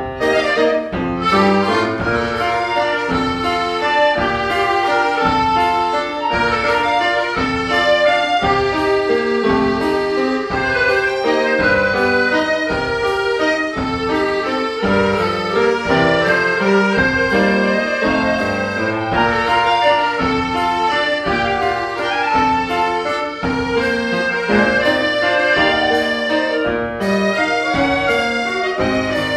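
A school chamber sextet of young players performing live, with a steady, regular beat.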